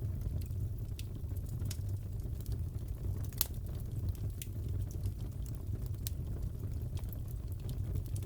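Wood fire crackling: a steady low rumble with irregular sharp crackles and pops, the loudest about three and a half seconds in.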